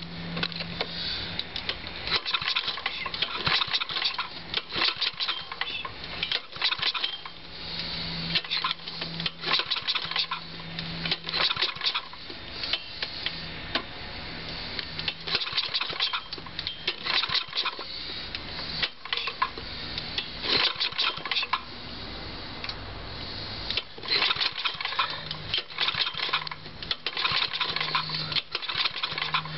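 1975 Tecumseh 5 hp small engine on a cold start: irregular metallic rattling and clattering throughout, with short lulls. A low steady hum is heard at the start and again near the end.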